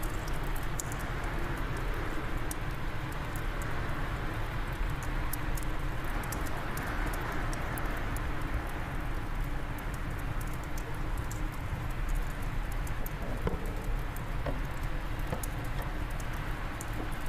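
Wood fire crackling in a fireplace, with frequent small sharp pops, over a steady low rush of wind.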